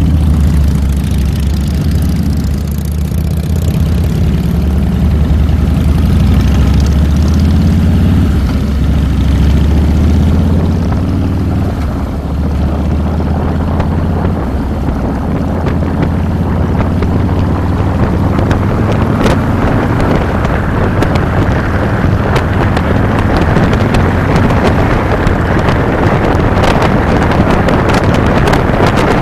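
Harley-Davidson Fat Boy's air-cooled V-twin (Twin Cam 96) running on the road, picked up by a handlebar-mounted microphone. Wind rushing over the microphone grows from about midway until it is louder than the engine, with sharp buffeting clicks near the end.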